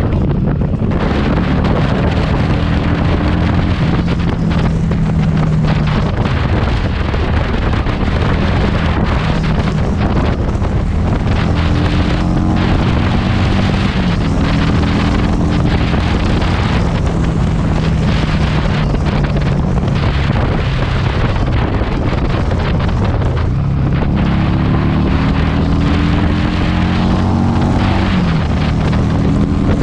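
Heavy wind buffeting on the microphone over a Harley-Davidson Street 500's V-twin through a TAB Performance exhaust. The engine revs climb and fall back several times as it is ridden through the gears.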